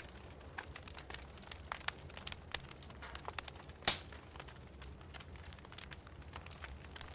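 Wood fire in a fireplace crackling, with irregular small pops and snaps over a low steady rumble. One louder pop comes about four seconds in.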